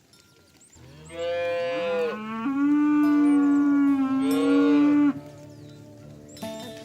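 Cow mooing: one long moo of about four seconds, starting about a second in, its pitch climbing at first and then held steady before it cuts off.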